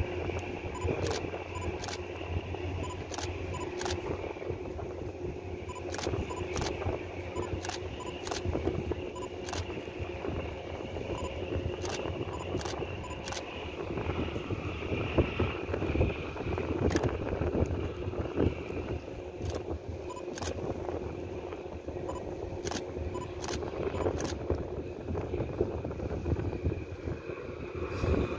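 Camera shutter clicks, repeated in irregular runs, over a steady low rumble with a faint hum.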